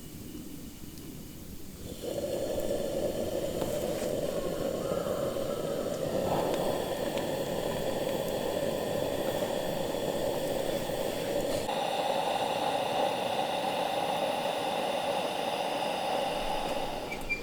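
Steady bubbling and hissing of food or water cooking over a campfire. It starts about two seconds in and turns a little brighter around two-thirds of the way through.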